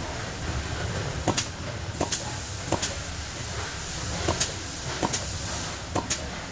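Sharp metal-on-metal knocks, most in quick double strikes, six times at irregular intervals, over a steady low hum; the knocks are typical of tapping parts loose while dismantling an electric motor.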